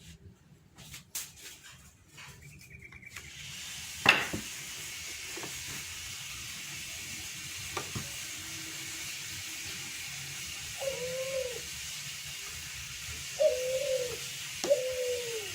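A bird cooing, four arched calls in the last five seconds, over a steady hiss. Two sharp knocks come earlier, about four and eight seconds in, the first the loudest sound.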